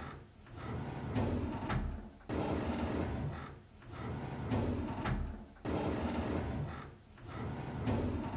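A drawer sliding open on its runners, with a rumbling scrape. It repeats about five times in a row, each slide lasting a second or two, with only short dips between them.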